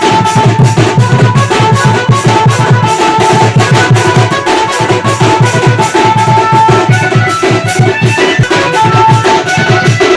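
Odia tribal Dhemsa dance music: fast, steady drumming under a held, wavering melody line.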